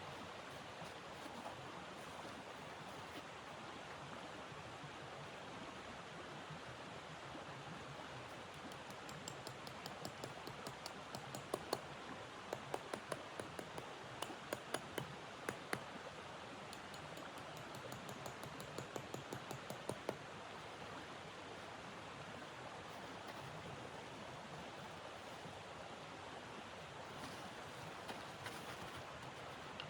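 Crackling wood fire: a steady hiss under a run of sharp, irregular pops and crackles that starts about a third of the way in and dies away about two-thirds of the way through.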